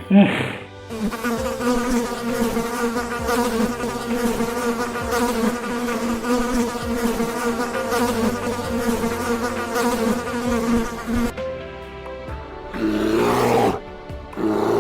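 A steady insect buzz that runs for about ten seconds and then stops, followed near the end by two short, louder animal calls.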